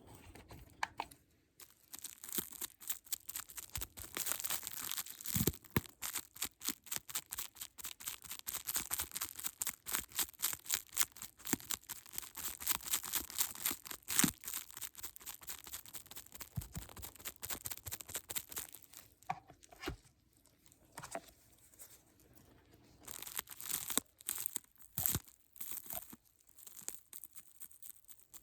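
Rapid, dense crackling and crinkling close to the microphone, like plastic or packaging being crumpled or torn. It thins out after about nineteen seconds into a few scattered bursts.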